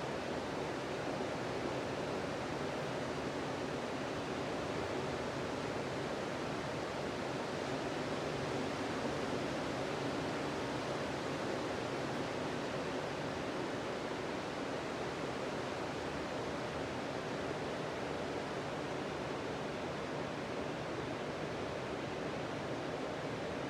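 Steady sea surf: waves breaking and washing on a sandy beach, an even continuous rush without distinct single crashes.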